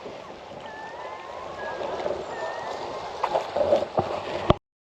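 Boat underway with steady wind and water noise, faint thin tones gliding in pitch over it, and a few sharp knocks near the end before the sound cuts off abruptly.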